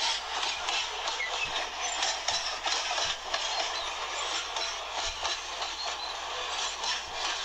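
Freight train with several diesel locomotives rolling by: a steady rushing of wheels on rail, with irregular clicks and clatter.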